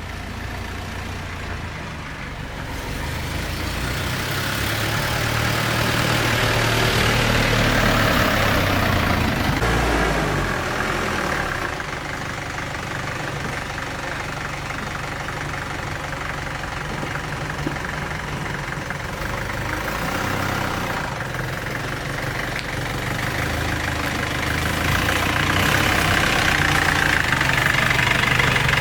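Motor vehicle engine running steadily, swelling louder twice: about a quarter of the way in and again near the end.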